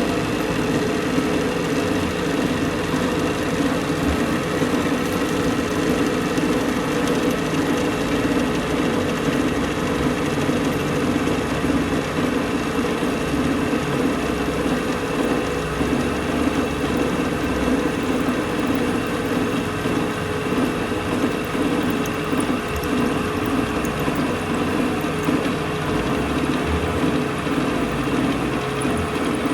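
A machine running steadily with a constant hum and no change in speed.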